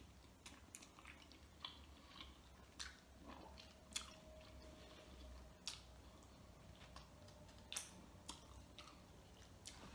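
Faint chewing with scattered soft mouth clicks, one every second or so, while a boiled chicken wing is eaten.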